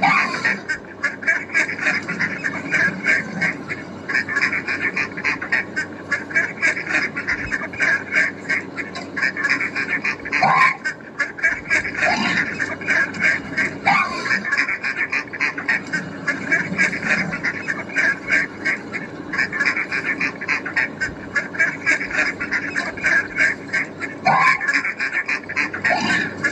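A bird calling in fast, repeated notes without a break, with a few short sliding calls standing out now and then.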